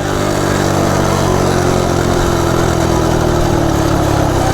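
Coleman CT100U minibike's small single-cylinder engine, its governor removed, running hard with its pitch sinking slowly as the bike eases off after a top-speed run.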